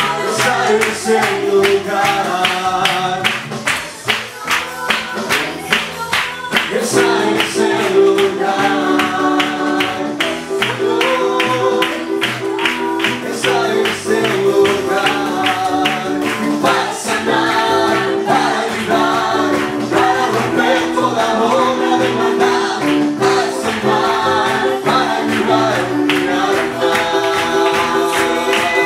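Voices singing a worship song over instrumental accompaniment with a steady beat.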